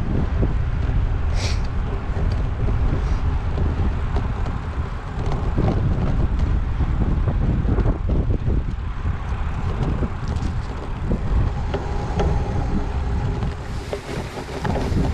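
Wind buffeting a GoPro action camera's microphone while cycling, a heavy low rumble, with irregular knocks and rattles from the bike riding over the ground.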